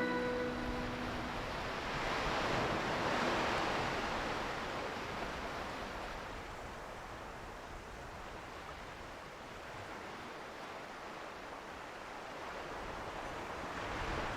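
Ocean surf: a steady wash of breaking waves that swells about two to four seconds in and again near the end.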